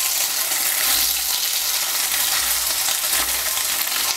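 Soya chunks sizzling as they fry in hot mustard oil in a kadai: a steady, even sizzle.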